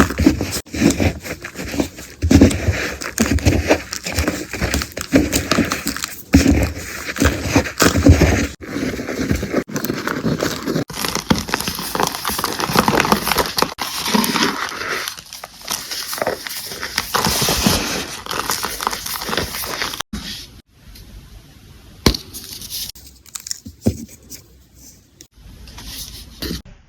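Dense crackling and crunching of something being crushed and broken, made of many short sharp cracks, changing abruptly a few times and turning quieter and sparser in the last few seconds.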